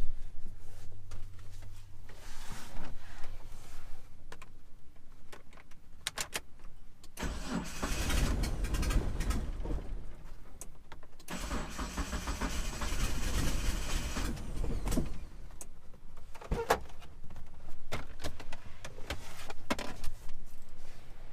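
1997 Mitsubishi Eclipse GSX's turbocharged 4G63 four-cylinder cranking on the starter twice, each time for about three and a half seconds, without catching. This is a crank-no-start that the owner suspects is a timing or cam angle sensor problem. A few sharp clicks come before and after the cranking.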